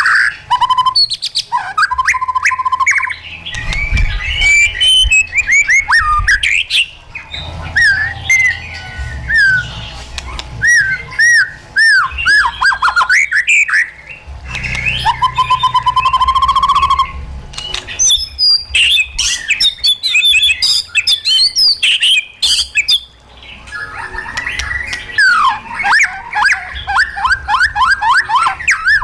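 White-rumped shama singing a long, varied song of loud whistled phrases that glide up and down, mixed with sharp clicks and rapid trills. Short pauses fall between phrases, and near the end comes a fast run of repeated notes.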